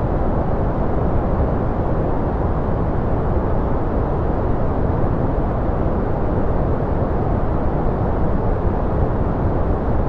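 Steady white-noise track: an even, unbroken rush with no rhythm or change, weighted toward the low end so it sounds deep and muffled rather than hissy.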